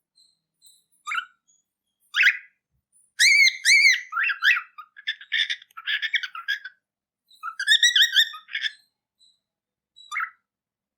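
A cockatiel chirping in bursts of high, arched calls. Single calls come about a second and two seconds in, then a few seconds of rapid rising-and-falling chirps and chatter, another short run, and one last call near the end.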